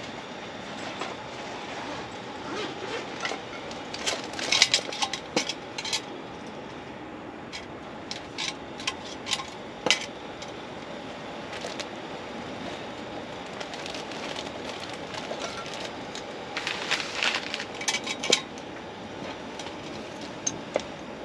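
Camp dishes and cookware clinking and clattering in a few short bunches, about four seconds in, around ten seconds and again near the end, over a steady background hiss.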